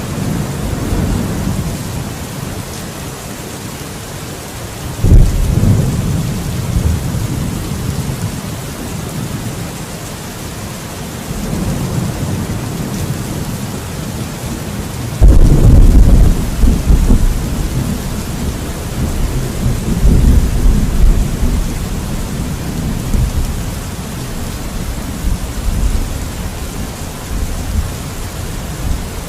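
Steady rain with thunder. A sharp thunderclap comes about five seconds in; a louder clap about halfway through rolls on as rumbling for several seconds.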